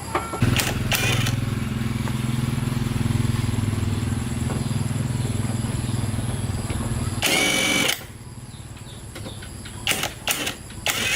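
An engine starts about half a second in and runs with a steady low hum. A brief loud high-pitched sound about seven seconds in, then the engine stops. A few sharp clicks follow near the end.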